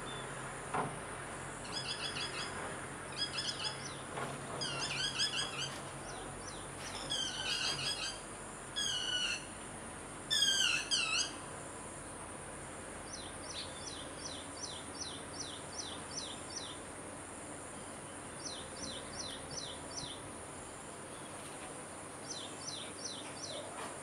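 Birds calling: bursts of high chirping notes through the first half, the loudest about halfway through, then short runs of quick, high, falling notes repeated several times.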